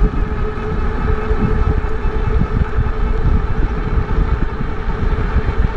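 Wind buffeting the microphone of a rider on a moving e-bike, a loud gusty low rumble, with a faint steady whine running underneath.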